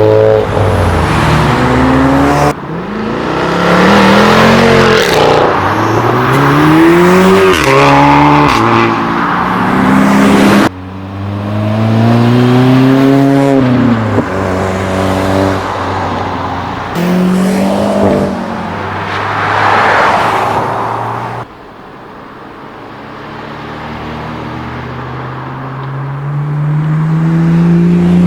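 Modified cars accelerating away one after another, engines revving up through the gears, the pitch climbing and dropping at each shift. The sound cuts abruptly from one car to the next three times. The last car is quieter at first and grows louder as its revs rise steadily near the end.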